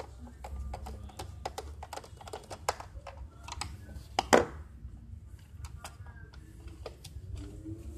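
Irregular clicks and knocks of hands and small tools working on a UPS's case and battery hardware, with one louder knock about four seconds in, over a low steady hum.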